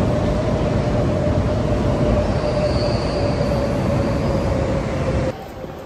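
Electric commuter train running past on an elevated track: a loud rumble of wheels on rails with a steady whine that sinks slightly in pitch, and a faint high squeal near the middle. The sound cuts off abruptly about five seconds in, leaving quieter street noise.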